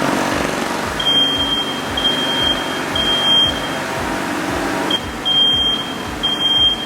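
A run of electronic beeps at one high pitch, each well under a second long, about one a second with a short pause in the middle, over a steady blowing, machine-like noise from the wind test.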